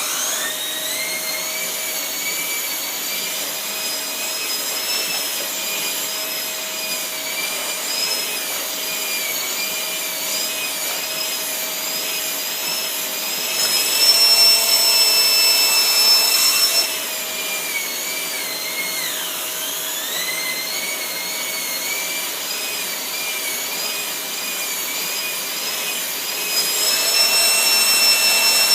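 Shark Rotator vacuum running with its turbo brush over a car floor mat: a steady motor whine that gets louder twice, for a few seconds around the middle and again near the end, and briefly drops in pitch and recovers about two-thirds of the way through.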